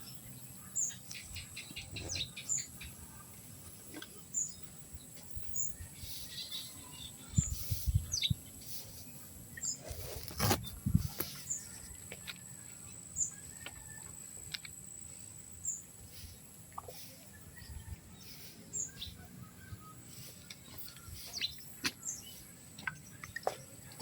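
Birds chirping: short, high, falling chirps repeated every second or so over a faint steady high whine, with a few knocks about a third of the way in.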